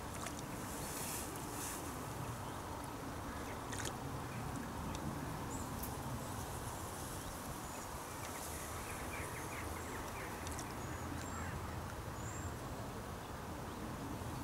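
Riverbank ambience: a steady low rush of outdoor background noise with faint, brief bird calls and a few soft clicks.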